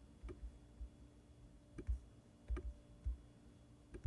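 Irregular, fairly quiet clicks of computer controls, about seven, each with a soft low knock beneath it, as a 3D model is moved and rotated in slicer software.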